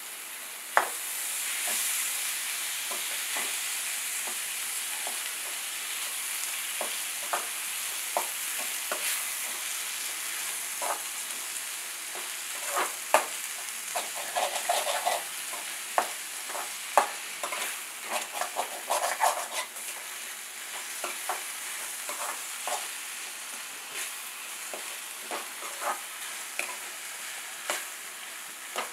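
Chopped tomatoes, onions and green chillies frying in hot oil in a kadai, a steady sizzle, while a spatula stirs and knocks against the pan in many short strokes. The strokes come thickest around the middle.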